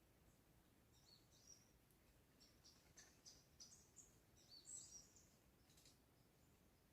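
Faint high-pitched songbird chirps: a string of short quick notes through the middle, loudest about two-thirds of the way in, over a faint steady background hiss.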